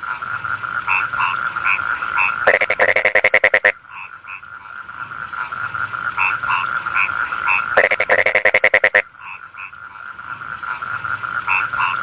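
Frogs calling in a rice field. A loud, rapid pulsed croak lasting about a second comes twice, about every five seconds. Between them are shorter spaced croaks, over a steady high drone.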